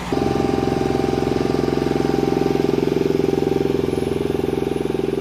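An engine running steadily with a fast, even pulse, cutting in abruptly at the start.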